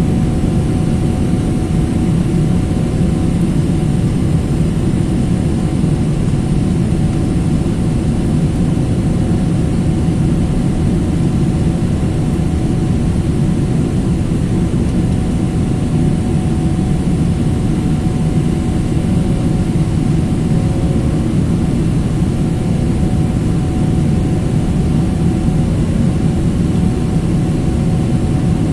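Steady jet airliner cabin noise: a constant low rumble of engines and airflow heard from inside the passenger cabin, with a faint steady tone over it and no change in level.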